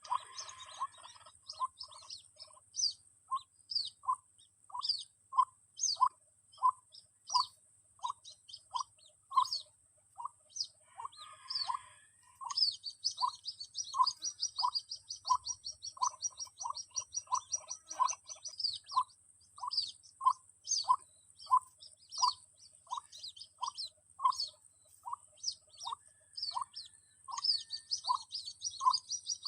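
Lure recording of white-breasted waterhen chick calls played through a speaker: a short call repeating evenly about every two-thirds of a second. Higher chirps lie over it, with a fast twittering trill about halfway through and again near the end, and a steady high hiss runs underneath.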